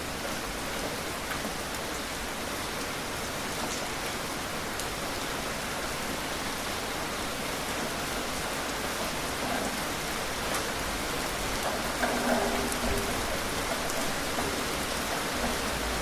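Steady rain falling, an even hiss with scattered drop ticks, a little louder about twelve seconds in.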